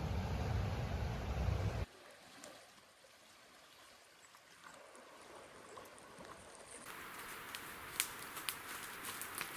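A low vehicle rumble cuts off abruptly about two seconds in, giving way to faint outdoor ambience. From about seven seconds in, a steady hiss with sharp clicks and crackles.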